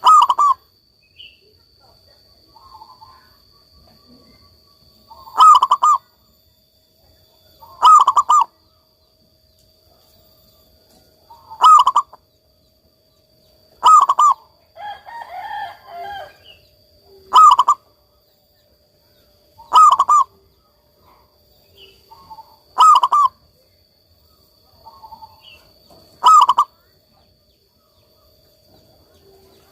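Zebra dove (perkutut) singing in full voice: a short run of quick cooing notes repeated about nine times, every two to three seconds, with softer calls in between.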